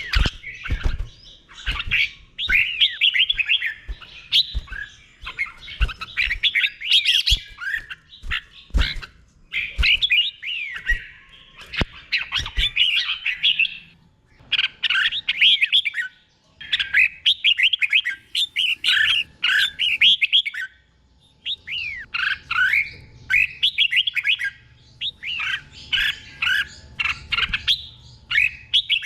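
Red-whiskered bulbul singing in the doubled style that Thai cage-bird keepers prize: phrases of quick, sweeping whistled notes, one after another, with short pauses between them. A few low knocks sound in the first half.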